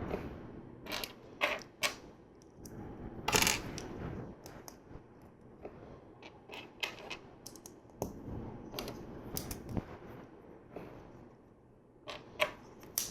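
Small plastic LEGO pieces being handled and pressed together: irregular sharp clicks and light rattles, the loudest cluster about three and a half seconds in.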